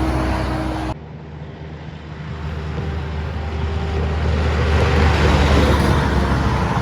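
Heavy truck diesel engines on the road. One truck's engine drones steadily and cuts off abruptly about a second in; then another truck's engine grows steadily louder as it comes closer.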